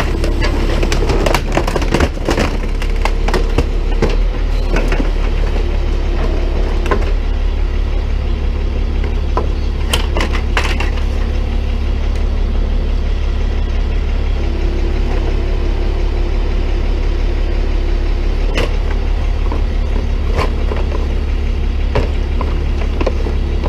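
Tow truck engine running steadily while its hydraulic can-crusher attachment presses down on plastic bumpers and car-part scraps in a trash can, which crack and snap, many times in the first several seconds, then now and then.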